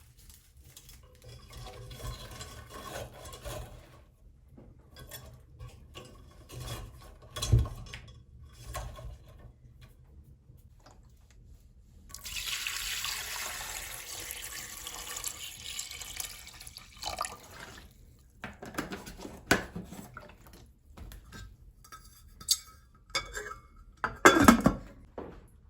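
Water splashing and pouring for several seconds, among intermittent knocks and clatter of dishes or vessels, with one heavier thump.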